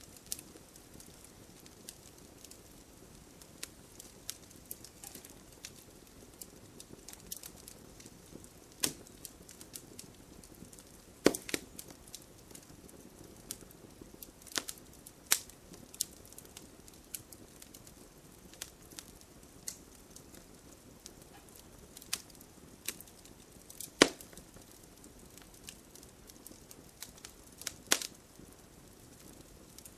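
Wood campfire burning with a soft low hiss and irregular sharp crackles and pops, a few of them much louder than the rest.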